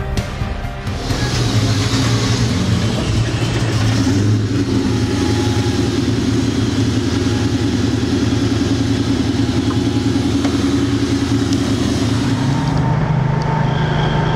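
Whipple-supercharged (2.9 L) Ford Mustang Cobra V8 on E85 idling with a steady note. About thirteen seconds in it gives way to a lower, steady engine drone.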